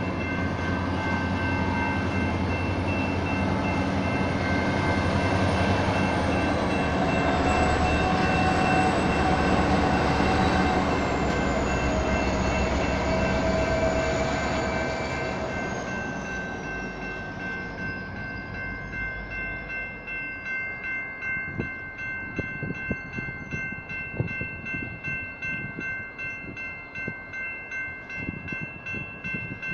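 Electronic crossing bells ringing steadily over the rumble of diesel locomotives moving slowly through the crossing. The locomotive rumble fades about halfway through, leaving the bells' quick repeated dings on their own.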